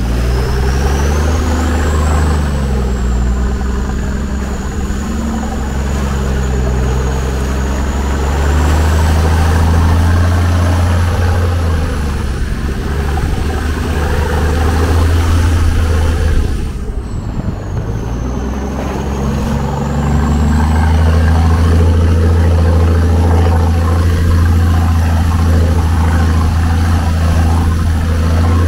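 Off-road 4x4's engine running at low revs, its pitch rising and falling with the throttle as the vehicle crawls along a muddy, waterlogged forest track, with a thin high whine that also rises and falls above it. About two-thirds of the way through the engine briefly eases off, then pulls again more loudly.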